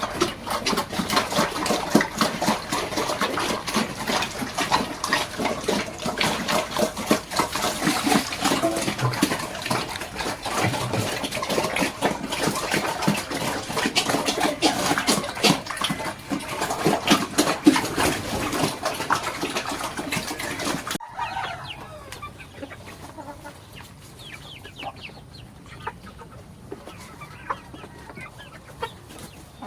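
Chickens clucking and calling in a busy, continuous chorus that cuts off abruptly about two-thirds of the way through, leaving quieter scattered farmyard sounds.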